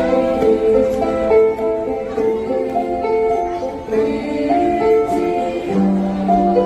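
A ukulele ensemble playing a song, with voices singing a stepwise melody over the plucked strumming.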